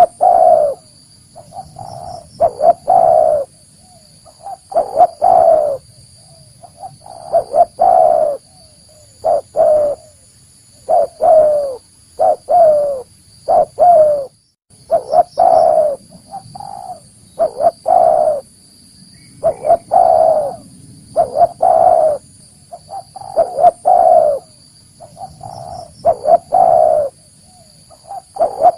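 Spotted dove (tekukur) cooing: a loud, repeated song phrase of a few short coos, one phrase every two to three seconds, with a faint steady high-pitched whine underneath.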